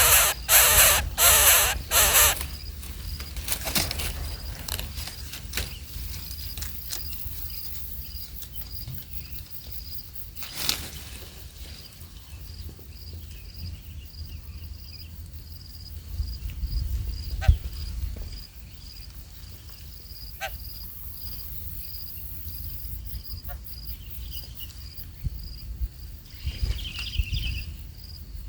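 Shrill, squeaky animal calls in a fast run of bursts for about the first two seconds, then a faint, steady, high-pitched pulsing trill like an insect's, with scattered clicks.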